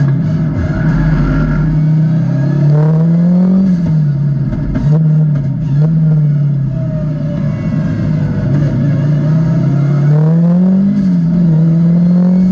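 Audi Quattro A2 rally car's turbocharged five-cylinder engine heard from inside the cabin, its revs climbing and dropping several times as it accelerates and slows between tight corners.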